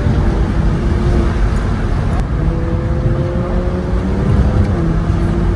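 Car engine under hard acceleration over heavy road and wind noise, its pitch climbing steadily, then dropping about four and a half seconds in as it shifts up.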